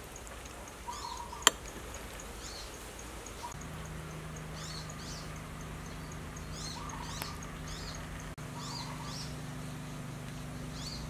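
Small birds chirping over and over in short calls. A single sharp click about one and a half seconds in, and a steady low hum that sets in about three and a half seconds in.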